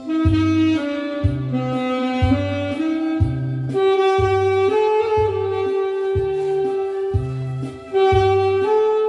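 Saxophone playing a slow song melody with long held notes, over a backing track with a steady bass beat.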